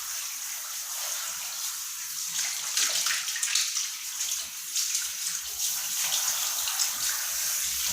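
Running water splashing steadily while a dog is being washed, a continuous hiss with small irregular splashes.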